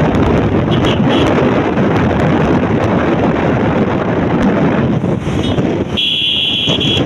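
Strong wind buffeting the microphone over a steady low rumble. Near the end a high steady tone sounds for about a second.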